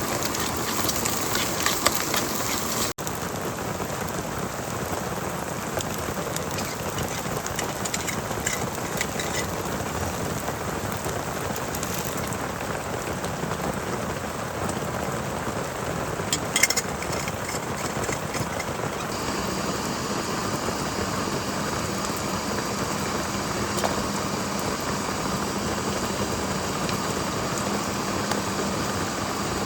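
Heavy rain falling in a steady hiss, with a few sharp crackling spatters about halfway through. A faint steady low hum joins the rain about two-thirds of the way in.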